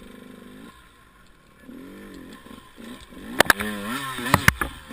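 Enduro motorcycle engine ticking over, then revving up and down in short throttle blips. Several sharp knocks near the end are the loudest sounds.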